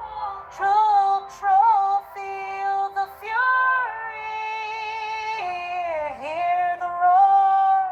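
A female voice, which sounds synthetic, sings long held notes that glide between pitches, with a dip in pitch about six seconds in.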